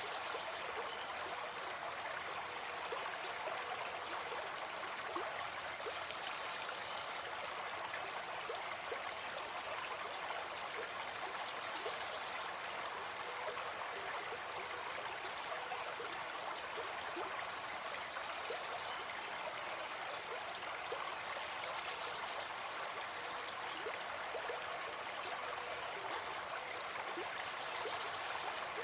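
Gentle forest stream flowing steadily, an even rush of running water.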